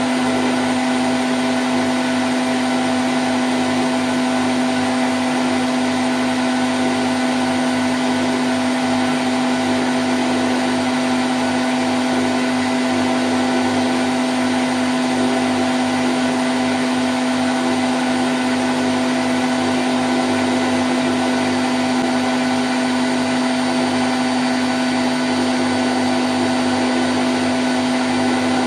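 Candy Grand O' F106 washing machine spinning at 1000 rpm: a steady, unchanging whirring hum, with one strong low tone and fainter higher tones over a dense rushing noise.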